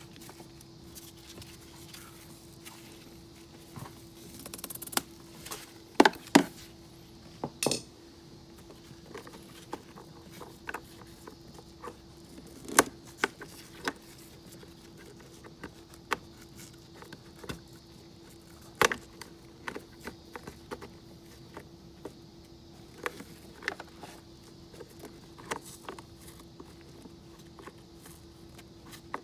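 Scattered metallic clicks and clinks of small tools and metal parts being handled during work on a scooter battery, a few sharper knocks among them, over a faint steady hum.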